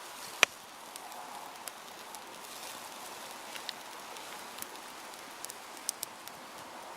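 Scottish sliced sausage frying over a campfire: a steady sizzling hiss with scattered crackles and pops, the sharpest about half a second in.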